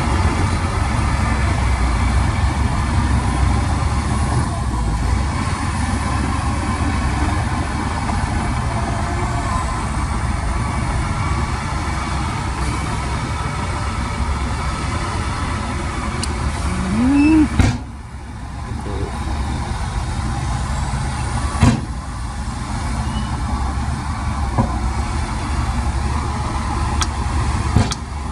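Heavy diesel machinery engine running steadily with a deep drone, briefly revving up a little past halfway, then a sharp knock and a drop in level, with another knock a few seconds later.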